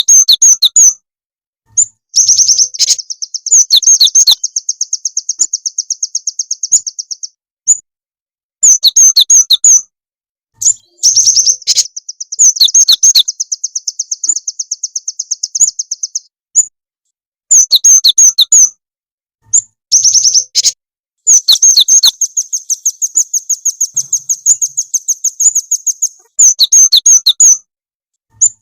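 Recorded small-songbird calls played as a bird-trapping lure: clusters of sharp high chirps, and twice a long rapid trill of high notes lasting about five seconds.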